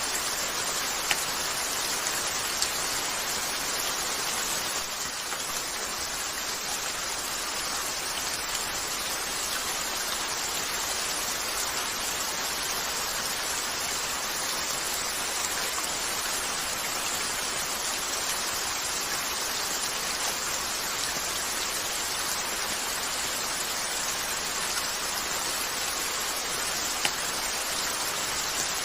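Steady rain falling on a window, an even hiss, with a few isolated sharp clicks, about three in all.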